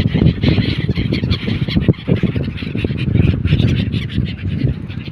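A flock of birds calling and squawking over a steady low rumble of wind and motor noise.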